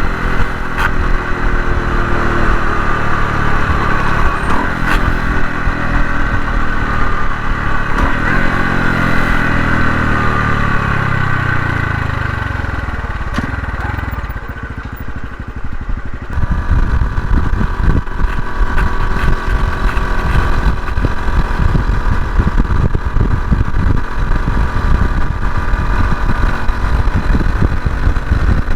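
Honda Hunter Cub single-cylinder engine running on the move, its pitch falling steadily through the first half as the bike slows. From about halfway, heavy wind buffeting on the microphone takes over, with the engine faint underneath.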